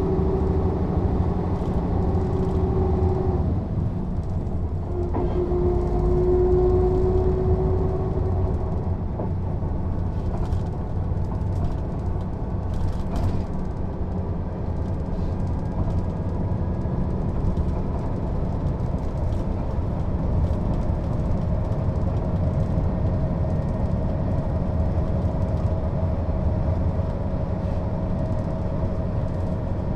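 Mercedes-Benz O 407 city bus's diesel engine running under way: a steady drone with a whining tone that changes pitch a few seconds in and settles into a steadier, higher whine for the second half.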